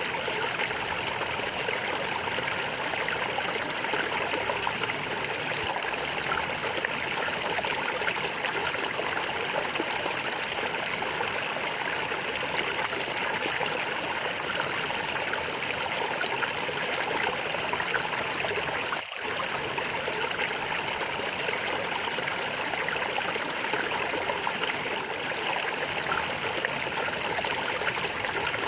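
Small stream of water flowing and gurgling steadily, with a brief dip about two-thirds of the way through.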